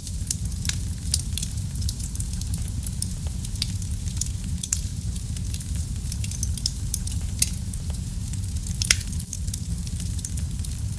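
Wood fire crackling in a fireplace: a steady low rumble of the flames under frequent small, sharp pops, with one louder pop about nine seconds in.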